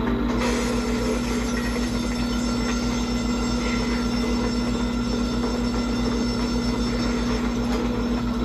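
A steady mechanical drone: a constant hum over a fast, even low pulsing, with a noisy hiss above, unchanging throughout.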